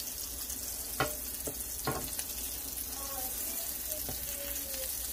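Tuna steaks searing in oil in a cast iron skillet: a steady, high sizzle, with two sharp clicks of a plastic spatula against the pan about a second and two seconds in.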